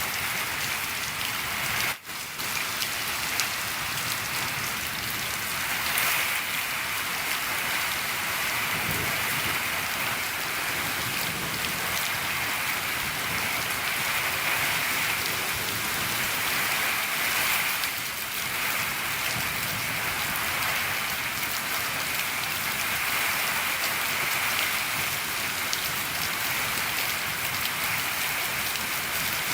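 Steady rain falling on a shed roof, a dense even patter, with a brief dip in level about two seconds in.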